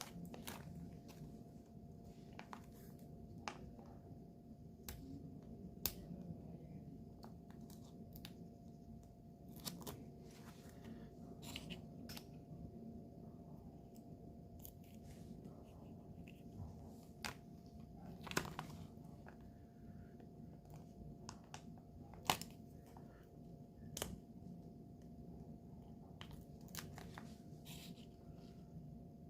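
Scattered small clicks and taps from nail tools and products being handled during close-up nail work, with a few sharper knocks. A faint steady hum runs underneath.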